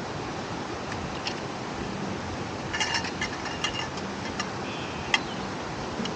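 Light clinks of camp tableware, a quick cluster about three seconds in and one sharp click near the end, over a steady rushing background noise.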